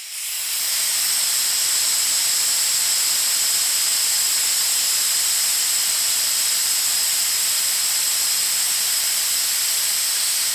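Patagonian viper (Patagonian lancehead) hissing: one long, steady high hiss that fades in and out, a defensive warning.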